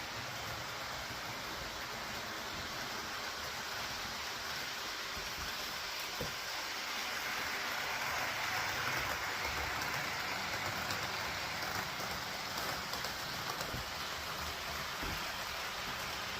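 A train running on its track: a steady rushing noise with a low rumble underneath, growing a little louder about halfway through.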